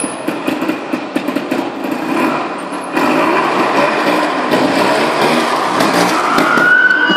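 Trials motorcycle engine revving in blips as the bike climbs stairs, getting louder about three seconds in.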